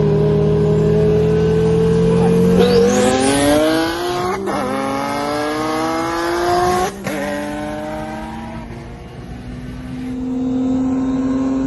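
Nissan 370Z's VQ V6 engine under hard acceleration, racing. It holds a steady note for a couple of seconds, then climbs in pitch through a gear. It drops at an upshift about four and a half seconds in, climbs again, and shifts again about seven seconds in before pulling on at a lower, steadier pitch.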